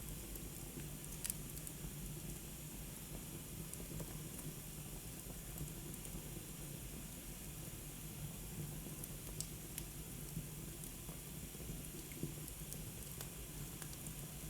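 Wood fire burning in a fireplace: a faint steady hiss with scattered crackles and a few sharper pops.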